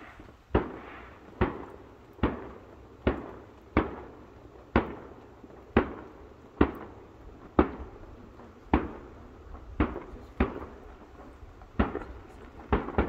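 Distant fireworks bursting in the sky, a sharp bang about once a second, each followed by a short echoing rumble.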